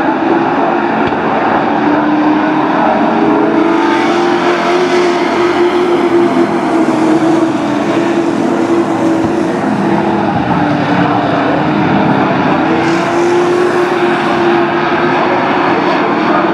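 Race trucks' engines running at speed around a short oval, a steady loud drone that wavers in pitch, swelling as trucks pass closer about four seconds in and again about thirteen seconds in.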